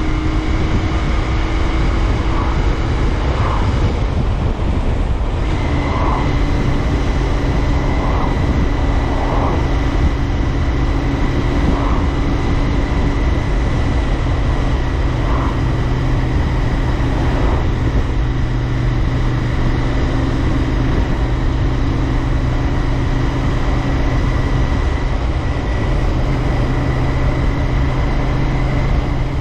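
Royal Enfield Interceptor 650's air-cooled parallel-twin engine running steadily while riding, its exhaust note heard with road and wind noise. The note breaks briefly about four seconds in, then settles at a slightly lower pitch.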